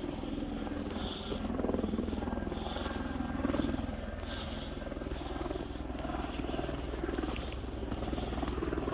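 Camera drone's propellers buzzing steadily in flight.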